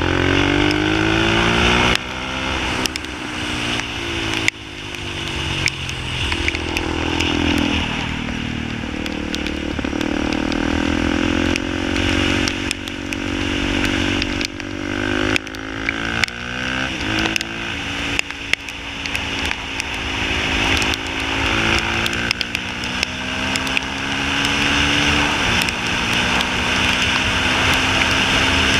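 Motorcycle engine revving hard through the gears while riding a track: its pitch climbs steadily, then drops sharply at each gear change, several times, with a dip and climb again near the start as it brakes and accelerates out of a corner.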